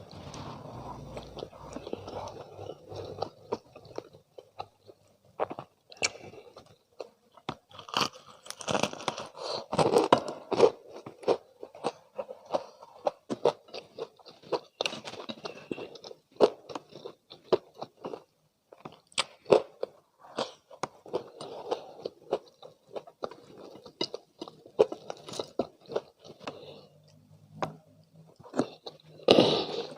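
Close-miked biting and chewing of crispy fried chicken, the crunchy coating crackling with each bite and chew, with denser, louder crunches around a third of the way in and again near the end.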